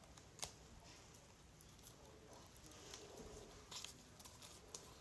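Near silence, broken by a few faint, sharp clicks and taps: a cockatiel nibbling at food offered by hand.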